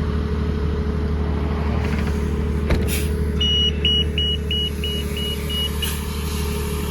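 2013 Gillig BRT transit bus running steadily with a constant low hum. Midway, a click is followed by a row of seven short, high beeps, about three a second.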